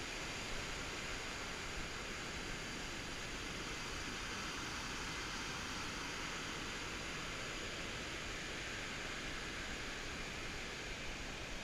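Steady rushing noise of floodwater flowing fast through a flooded creek, an even hiss with no break.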